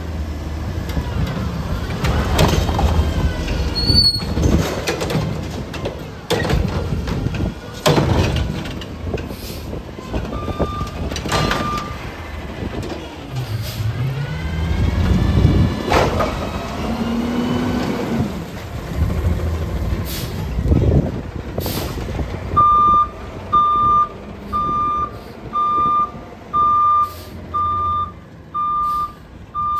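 Recycling garbage truck working a pickup: diesel engine running under load with rising and falling whines, sharp bangs and air-brake hisses. Two short reversing beeps come about ten seconds in, and from about 23 s the reversing beeper sounds steadily about once a second as the truck backs up.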